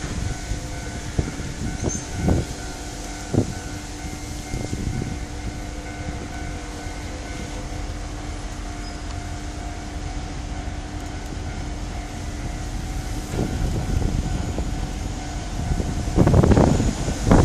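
Level-crossing warning bell ringing steadily, with wind buffeting the microphone, as a diesel-electric locomotive hauling a coal train approaches. The locomotive's engine rumble rises sharply near the end.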